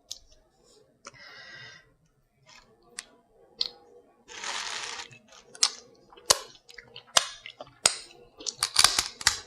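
Close-up eating sounds from a sauce-covered crab: sharp cracks and clicks of the shell being broken, and a second-long sucking slurp about four and a half seconds in.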